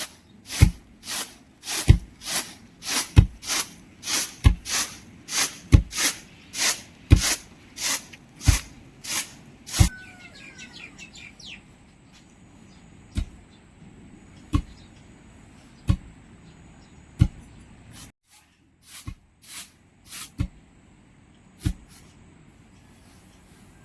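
Repeated sharp knocks, about two a second for the first ten seconds, then slower, roughly one every second and a half, before trailing off, with faint bird chirps around ten seconds in.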